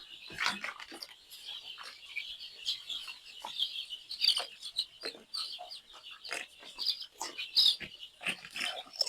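A flock of young chickens peeping continuously, a dense chatter of short high chirps, with scattered short, lower-pitched knocks or calls among them.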